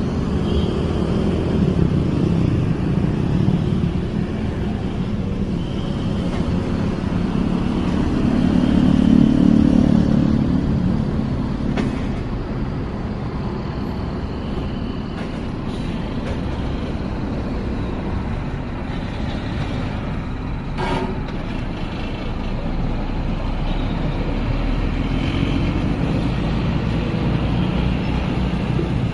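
A heavy bus engine running steadily with road noise. It swells louder around nine to ten seconds in, and there is one short sharp knock about twenty-one seconds in.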